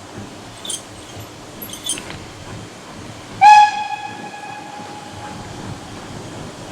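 Steam locomotive whistle giving one short, loud blast about halfway through, which fades away over a second or so. A few faint metallic clinks come before it.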